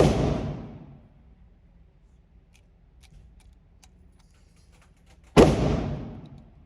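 Two pistol shots from a 9mm Glock 19, about five and a half seconds apart, each with a reverberant tail dying away over about a second.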